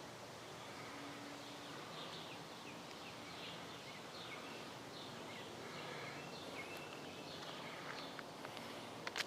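Faint outdoor ambience with several birds chirping in short, repeated calls over a steady background hiss, and a couple of sharp clicks near the end.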